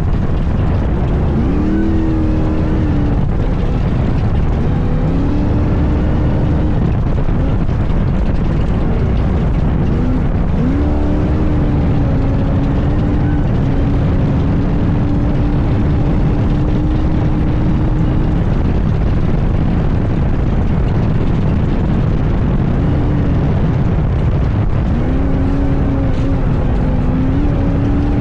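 Class 1 all-wheel-drive off-road race buggy engine running hard over a heavy rumble, its note climbing and holding, then dropping and climbing again several times as it works through the gears.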